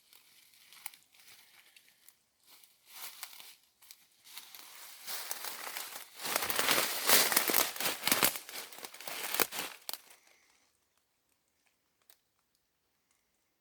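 Rustling and crackling of dry leaves and brush, with irregular crunches that grow loudest in the middle and stop abruptly about three seconds before the end.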